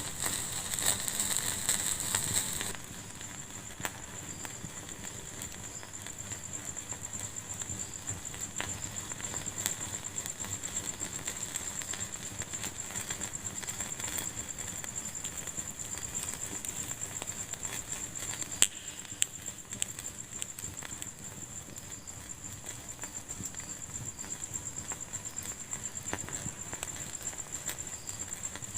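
Wood fire burning in a fireplace, crackling with scattered sharp pops. For the first couple of seconds it hisses more loudly and densely, then settles to a quieter crackle, with one sharp pop about two-thirds of the way through.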